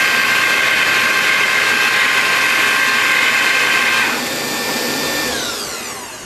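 Home-built turbocharger jet engine running with a steady high whine. About four seconds in it drops off, then spools down, its whine falling in pitch near the end.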